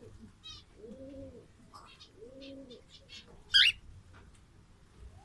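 Pet pigeons cooing, a low rising-and-falling coo repeated about every second and a half. A short, sharp high chirp sounds about three and a half seconds in, among faint twitters and clicks.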